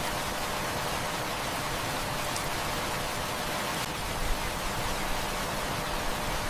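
Heavy rain falling steadily, an even hiss with a few faint clicks scattered through it.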